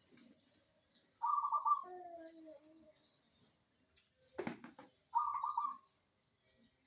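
Zebra dove (perkutut) cooing: two short rolling, pulsed coo phrases about four seconds apart, the first trailing into a lower falling note. A brief knock about halfway between them.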